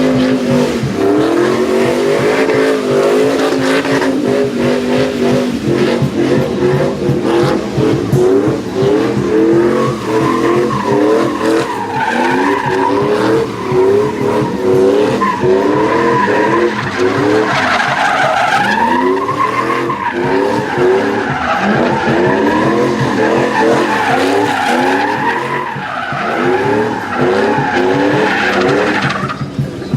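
A truck engine revving hard again and again, its pitch rising about once a second, while the tyres squeal and skid under wheelspin in a burnout or donuts. From about ten seconds in, the tyre squeal wavers up and down alongside the engine.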